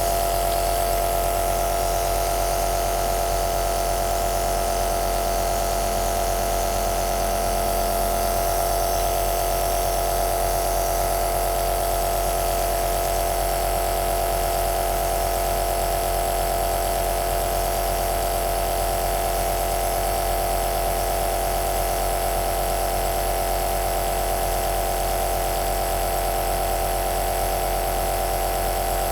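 Compressor nebulizer (aerosol machine) running: a steady motor hum with a fixed tone over an even hiss.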